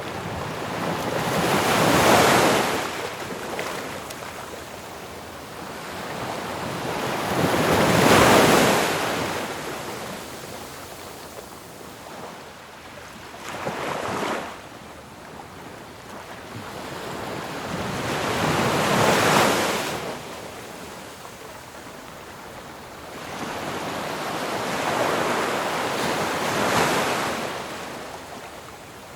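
Ocean waves breaking on a shore, about five in a row every five to six seconds: each builds to a rushing crash of surf and then draws back to a lower wash.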